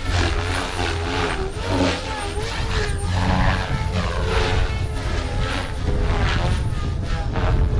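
Battery-electric RC helicopter (OMPHOBBY M4) in 3D aerobatic flight at about 2700 rpm head speed: the rotor blades whoosh and the drive whines, the pitch rising and falling continually as the blades load and unload through the manoeuvres.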